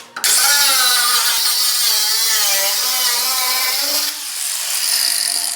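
A power tool cuts through the car's steel body beam. It starts suddenly, runs loud with a wavering pitch as it works under load, eases about four seconds in, and then fades away.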